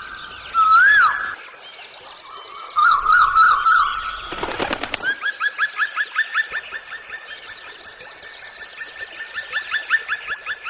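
Birds calling: a rising-and-falling whistle and a warbling phrase, then a brief burst of rapid clicks a little before the middle, followed by a long run of repeated rising chirps, about four a second.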